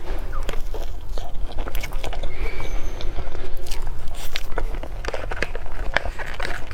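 Close-up chewing of chocolate cake, with many short, sharp mouth clicks throughout.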